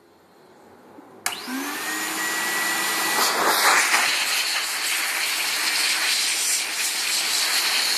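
A pet grooming dryer-vacuum turbine switched on about a second in: its motor spins up with a short rising whine, then runs steadily with a loud rush of air.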